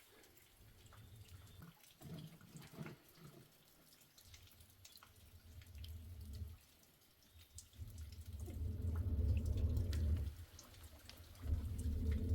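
Water dripping in scattered drops, with two louder low rumbles of about two seconds each in the second half.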